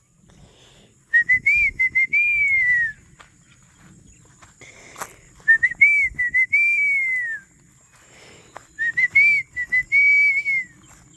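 A person whistling the same short rising-and-falling call three times, each about two seconds long, to call the flock of chickens to follow.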